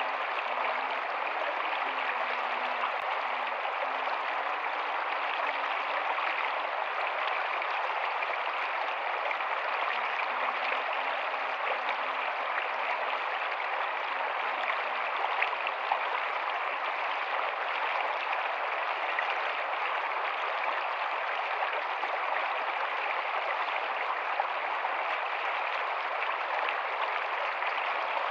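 A rocky stream flowing steadily, water rushing over stones in an even hiss, with faint low gurgles coming and going in the first half.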